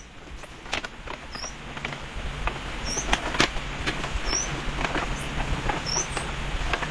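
Irregular taps and knocks, as of wood being worked by hand, with a short high chirp repeating about every second and a half.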